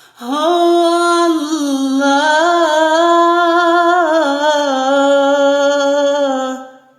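A solo male voice sings one long melismatic phrase of Egyptian religious inshad. It starts on a held note, then winds down in small ornamented steps and slides lower, fading out just before the end.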